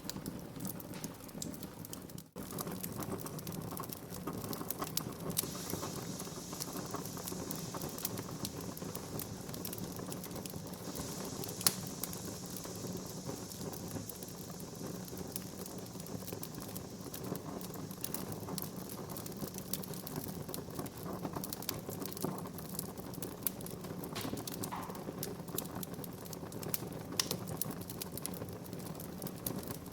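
Wood fire burning in a fireplace, crackling with many small snaps and pops over a steady hiss, and one louder pop about twelve seconds in.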